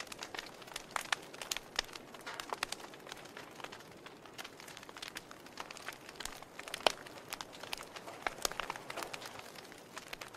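Burning logs crackling: irregular sharp pops and snaps over a faint hiss, with one louder pop about seven seconds in.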